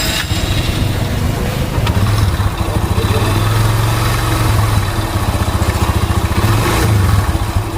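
Mahindra Centuro Rockstar 110's single-cylinder four-stroke engine running steadily after the cam-chain tensioner has been refitted with a soft spring. Its sound is now smooth, the engine's bad noise largely cured.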